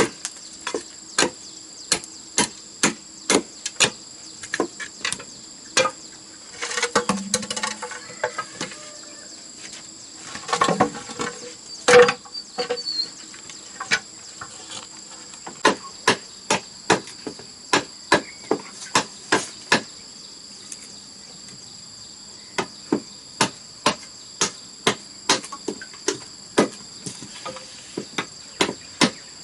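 A hand tool striking bamboo in steady, evenly paced knocks, about two a second, with a brief pause about two-thirds of the way through. Twice around a third of the way in there is a rattle of bamboo being handled. A steady high insect drone runs underneath.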